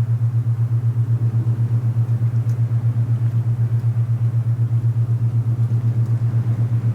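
A low steady hum from an alpha binaural-beat track, pulsing evenly several times a second where the two close tones beat against each other, over a soft rushing wind noise.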